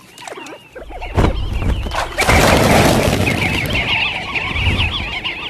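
A flock of sandgrouse chattering at a water hole: many quick, overlapping calls that start about three seconds in. They follow a brief loud rush of noise.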